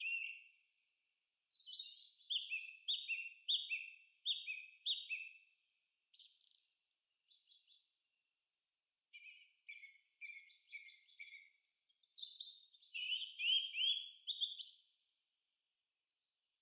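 A songbird singing: phrases of quick repeated chirping notes, about two a second, broken by short pauses.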